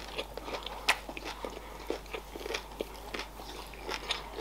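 Close-miked chewing of a battered, fried sushi roll with the mouth closed: soft wet smacks and small crunches, with one sharper crunch about a second in.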